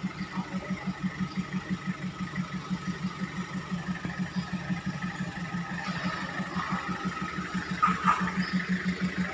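Machinery of a rice grain dryer running: a steady low hum pulsing evenly about four to five times a second, with two short sharp clicks about eight seconds in.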